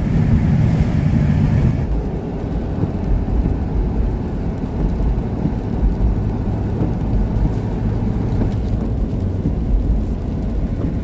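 A car driving along a road: a steady low rumble of engine and tyre noise, with a humming note that drops away about two seconds in.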